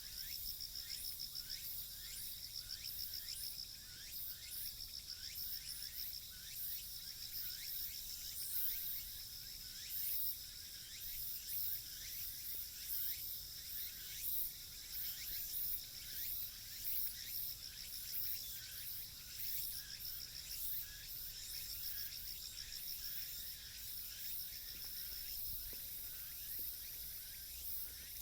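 Insects singing: a steady high-pitched trill with a dense run of quick, uneven chirps over it, and a faint low rumble underneath.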